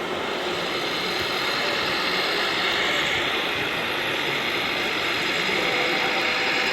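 Electric motors and gearboxes of radio-controlled model trucks running, a steady mechanical whirr that grows a little louder after a couple of seconds.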